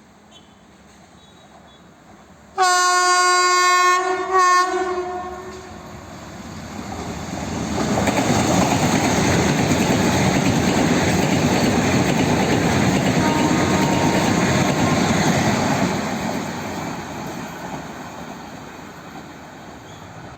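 Indian Railways locomotive horn sounding one long blast and then a short one, followed by a train passing with the rumble and clickety-clack of its wheels, building up and then fading away.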